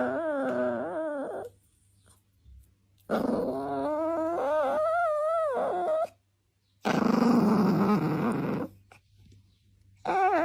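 A dog vocalizing in long, wavering whine-howls, one after another with short gaps. About seven seconds in comes a rougher, growling call.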